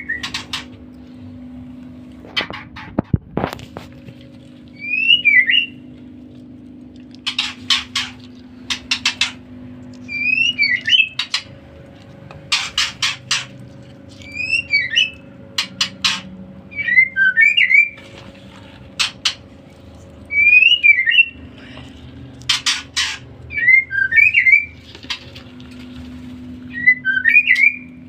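Young songbird calling over and over: each phrase is a quick run of sharp, harsh chips followed by a short whistled twitter, repeated about every three seconds. A steady low hum runs underneath.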